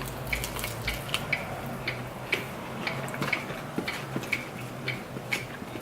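Close-up mouth sounds of eating: chewing and lip smacks, heard as a string of irregular short clicks, two or three a second, over a faint steady low hum.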